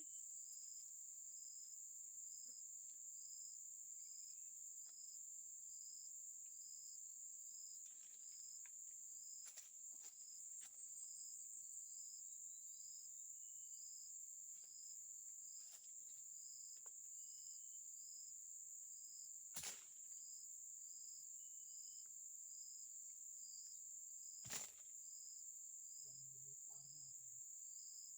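Forest insects droning steadily at a high pitch, with a regular chirp repeating about once a second and a few faint short bird whistles. Two sharp clicks sound in the second half.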